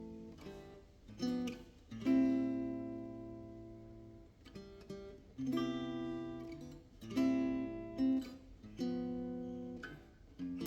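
Background music: an acoustic guitar strumming slow chords, each left to ring and fade before the next.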